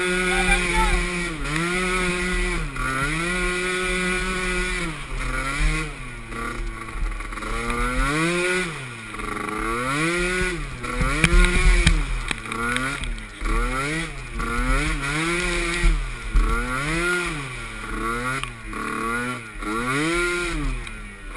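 Small youth ATV engine revving up and falling back over and over as the throttle is opened and closed, about once every one to two seconds.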